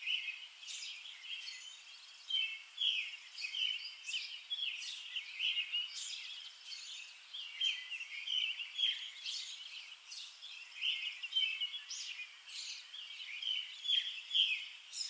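Small birds chirping in a continuous, busy chorus of short, high chirps.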